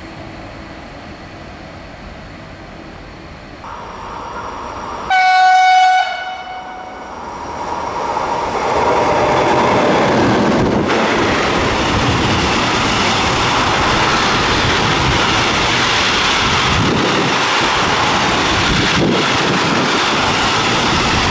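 A single loud horn blast of about a second from an FS E652 electric locomotive, followed by its freight train of open wagons passing close by. The wheel and wagon noise builds up and then holds steady.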